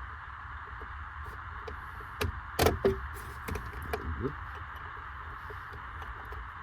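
A handful of sharp clicks and knocks as metal hardware and tools are handled while the CB radio's mounting bracket is set in place. The loudest two come together about two and a half seconds in, over a steady hiss.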